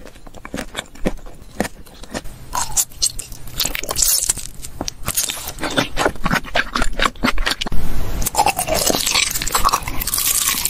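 Close-miked eating sounds: sticky chewing, crunching and wet mouth clicks that get busier toward the end. Near the end there is a bite into a piece of honeycomb.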